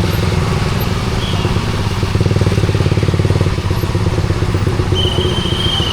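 Suzuki GSX-R150's single-cylinder engine running at low, steady revs through a SARP aftermarket exhaust, its pulsing beat plain. A thin high squeal comes in near the end.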